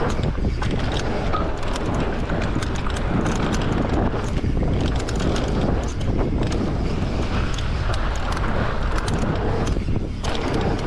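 Wind buffeting the microphone and tyres rolling on a dirt trail, with frequent clicks and rattles from an electric mountain bike jolting over rough ground.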